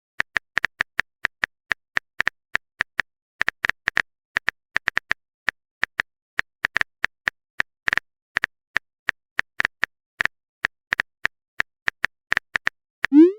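Keyboard typing sound effect: a long run of quick, uneven tapping clicks, about four a second, ending with a short rising whoosh.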